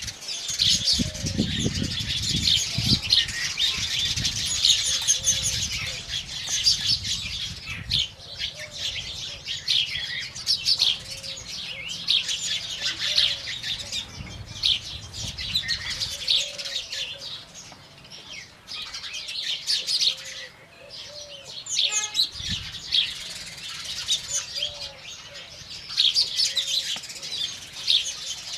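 A flock of house sparrows chirping in a dense, continuous chatter. A low rumble runs under it for the first half, then drops away.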